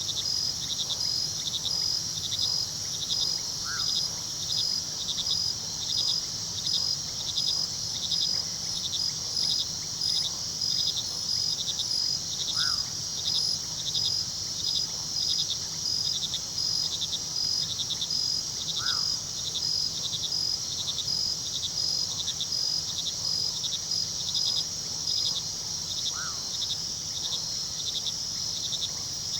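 Night chorus of crickets: a continuous high trill with rhythmic chirping that swells about once a second, over the low steady rush of a river. A short faint call sounds four times, spaced several seconds apart.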